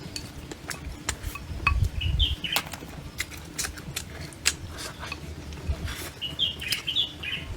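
Small birds chirping in short bursts twice, about two seconds in and again near the end, amid scattered sharp clicks and taps.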